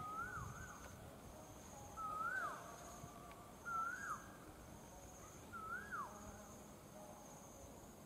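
A bird repeats a whistled note that rises and then drops sharply, four times about two seconds apart, over a steady high-pitched insect buzz.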